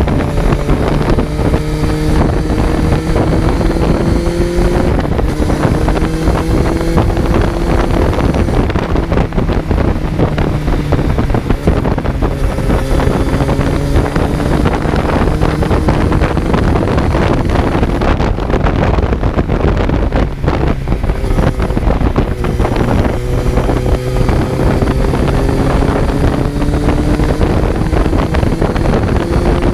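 Kawasaki Z900's inline-four engine pulling along the road, its pitch climbing slowly and dropping back at each gear change several times, with wind rushing over the microphone.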